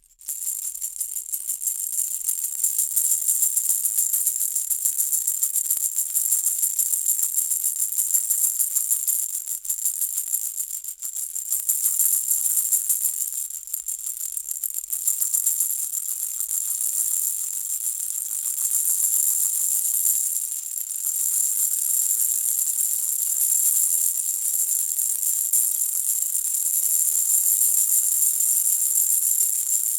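Baby's hanging rattle shaken continuously, a bright, high, steady jingling that swells and eases slightly in intensity.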